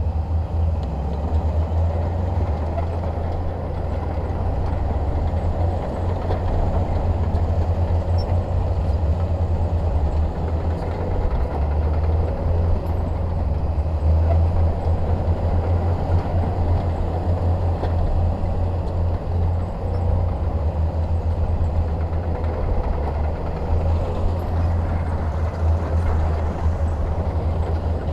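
Diesel engine of a Shantui DH17 bulldozer running steadily under a constant low drone.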